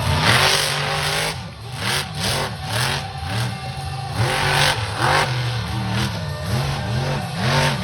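Monster truck engine revving up and down again and again in quick blips, with loud blasts of exhaust noise.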